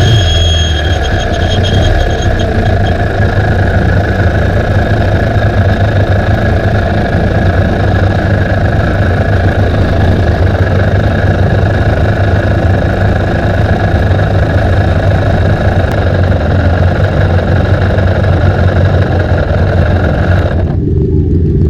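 Racing motorcycle engines idling steadily on the start grid. About a second before the end the sound turns suddenly muffled, leaving only the low rumble.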